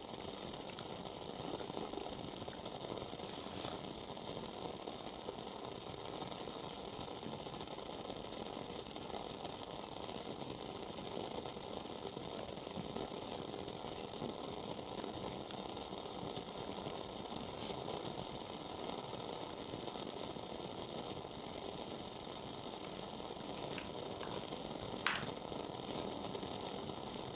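Wooden-wick coffee candle burning with a steady fine crackle like a small fireplace, with one louder pop near the end.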